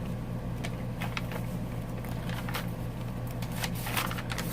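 Pages of a handmade paper journal being turned and handled: soft paper rustles and light clicks over a steady low hum.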